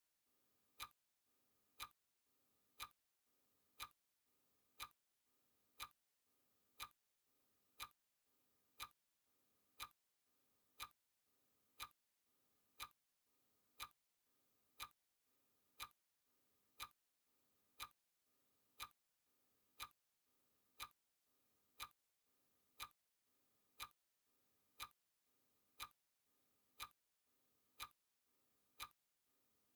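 Clock-style ticking sound effect of a countdown timer, one short, sharp, faint tick every second at a steady pace.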